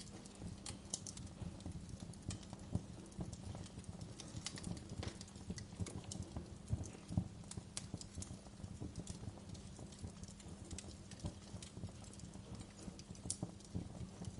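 Crackling wood fire: irregular pops and sharp snaps, several a second, over a steady low rumble.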